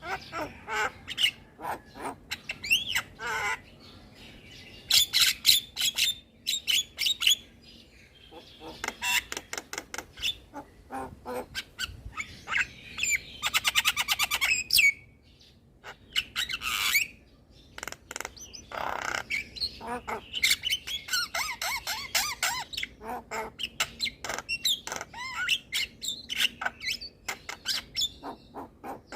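Javan myna singing a varied, chattering song of harsh squawks, whistles and chirps, with a fast clicking rattle about halfway through.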